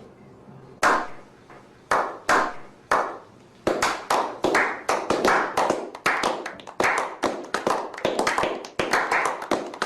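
A series of sharp smacking strikes, like hand claps: a few spaced out at first, then a quicker, irregular run of several a second from about four seconds in.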